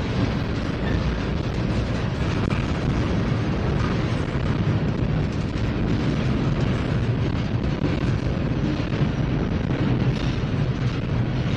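Freight train's tank cars and boxcars rolling past close by: a steady, loud noise of steel wheels on the rails.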